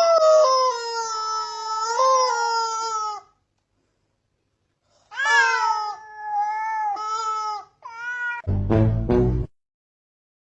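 A domestic cat meowing in long, drawn-out yowls: one lasting about three seconds, then after a pause a wavering one and a short one. A brief burst of a deeper, fuller sound comes near the end.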